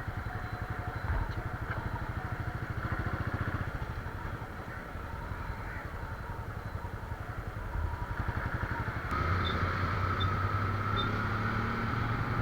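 Motorcycle engine running while riding, its low, rapid firing pulses steady; about nine seconds in the sound grows louder.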